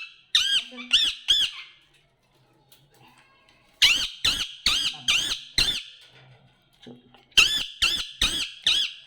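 Pet parrot squawking in three runs of quick, sharp calls, four to six calls a run, each call rising and falling in pitch, with pauses of about two seconds between the runs.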